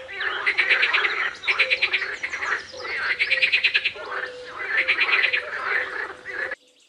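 Frog calling in repeated bouts of rapid pulsed croaks, each bout lasting about a second. The sound cuts off abruptly near the end.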